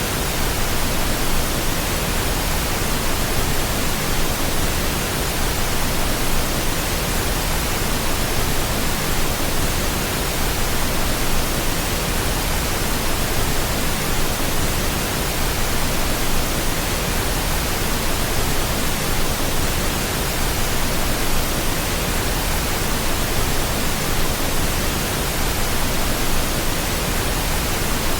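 Steady pink noise: an even, unbroken hiss spread across all pitches, played continuously as a sleep sound.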